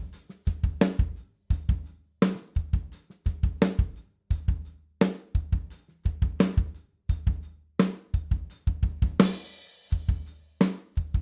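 Acoustic drum kit playing a steady beat of kick, snare and hi-hat, with a cymbal crash about nine seconds in. It is heard through the close microphones plus a mid-side stereo pair, with no room microphones.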